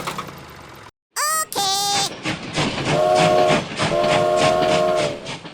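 Train sound effect: an even clickety-clack of wheels on rail joints, about five a second, with two blasts of a multi-tone train horn, after a pair of rising whistle-like glides.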